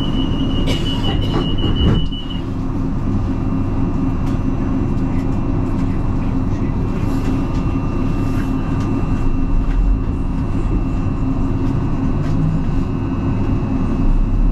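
Inside a train carriage: rapid electronic beeping for the first two seconds or so, ending with a loud knock about two seconds in, typical of the door warning and the doors shutting at a station. Then the steady rumble and hum of the carriage with a faint steady whine.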